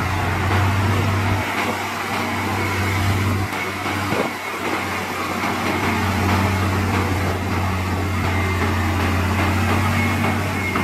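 Heavy diesel engine of earthmoving equipment running steadily with a deep drone that shifts slightly in pitch a couple of times, and one short knock about four seconds in.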